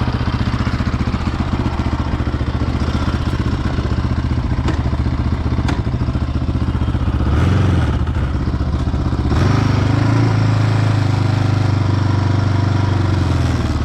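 Quad bike engine running at low revs, revved briefly about seven seconds in, then held at higher revs for about four seconds before easing off near the end.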